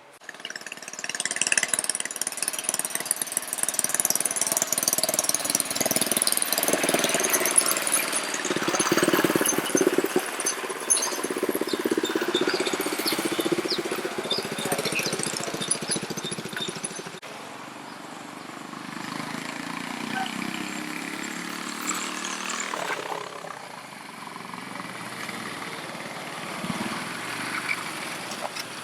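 ATV engines running and revving. They get louder about a second in, the pitch rises and falls, and they ease to a lower, steadier running about halfway through.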